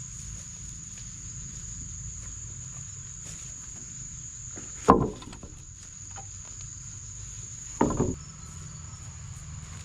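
Insects, likely crickets, keep up a steady high-pitched drone. Two short, loud knocks come about three seconds apart, the first about halfway through.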